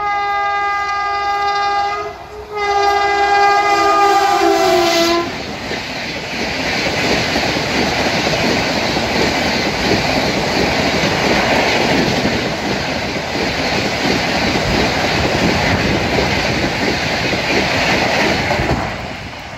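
A passing train's locomotive horn sounds two long blasts, the second one the loudest, its pitch dropping as the locomotive passes. Then the passenger coaches rush past at speed with a steady roar of wheels clattering over the rail joints, which fades near the end as the last car goes by.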